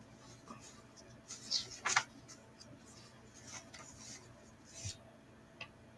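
Scattered rustling and scraping handling noises in a small room. The loudest come as a couple of scrapes about two seconds in, and there is a small click near the end.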